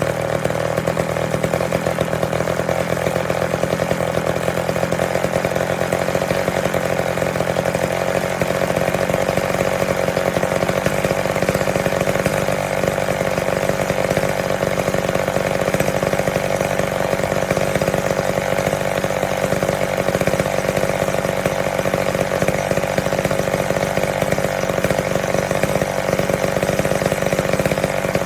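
McCulloch Mac 10-10 two-stroke chainsaw running steadily and continuously on its first run after repair, its note shifting slightly about eight seconds in.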